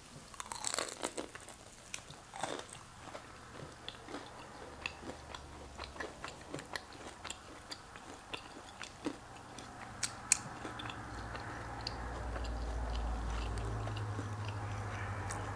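A person biting into a crispy breaded fried chicken tender and chewing it, with many short crunches and mouth clicks, thickest in the first few seconds. A low steady hum swells in the background near the end.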